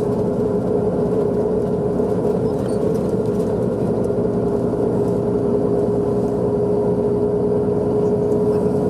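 Bus driving, its engine and road noise heard from inside the cabin as a steady rumble with a constant whine.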